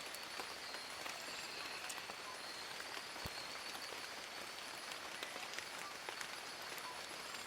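Steady rain falling through forest leaves, with many individual drops ticking sharply close by over an even hiss.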